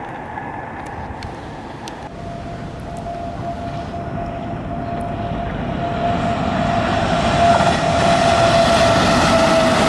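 Passenger train hauled by a WAP-7 electric locomotive approaching, its rumble growing steadily louder. From about two seconds in a steady high tone rises with it and drops slightly in pitch near the end.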